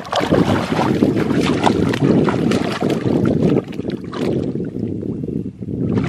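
Tractor engine running, with mud and water splashing and crackling over its steady low noise; it eases off a little after the middle.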